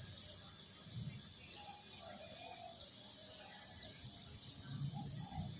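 Steady high-pitched chirring of insects in the background, with a few faint short sounds underneath.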